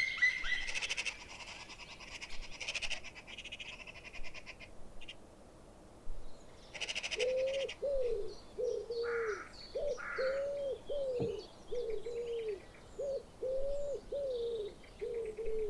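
Wild birdsong: small birds chirping and trilling at first, then from about seven seconds a low cooing call repeated about twice a second, with faint high chirps behind it.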